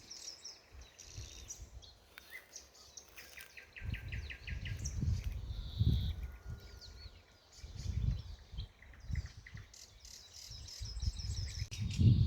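Several small songbirds singing, with quick runs of repeated chirps and trills, over irregular low rumbling swells that come and go.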